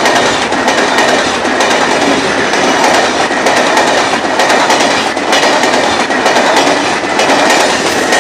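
Diesel-hauled passenger train running past, its wheels clattering steadily over the rail joints, with a thin, steady high tone above the rumble.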